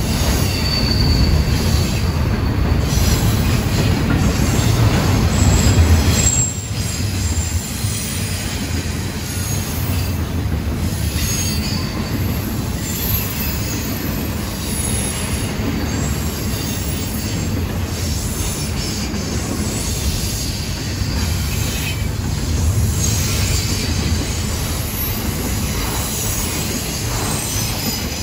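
Double-stack intermodal freight train's well cars rolling past: steady rumble and rattle of steel wheels on rail, with faint high wheel squeal here and there. Louder for the first six seconds, then dropping a little and holding even.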